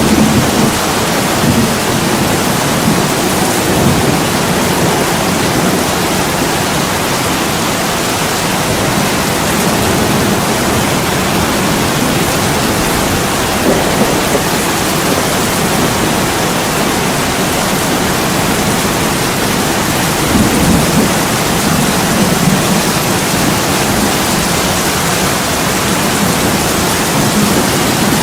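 Steady heavy rain pouring down, with low rumbles of thunder near the start and again about twenty seconds in.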